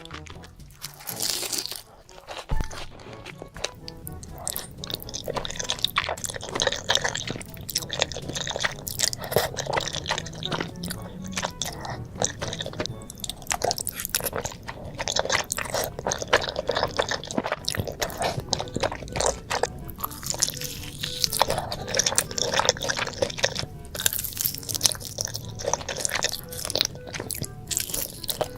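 A person eating: dense, irregular crunching, biting and chewing throughout.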